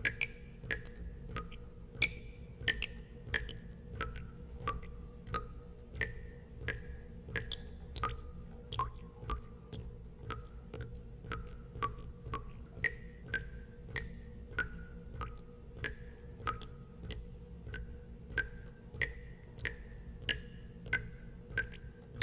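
Water drops falling one after another into water, about two a second, each a short pitched plink at a different pitch, over a steady low rumble.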